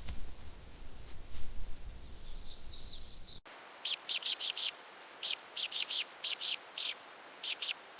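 Low wind rumble with a few knocks and a brief high warbling bird song, then an abrupt cut to a bird giving groups of short, high chirps in quick succession.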